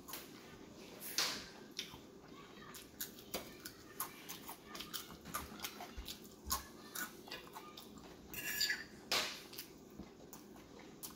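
Close-miked chewing of potato chips and chicken: irregular crunches and wet mouth clicks, with a louder crunching stretch about eight to nine seconds in.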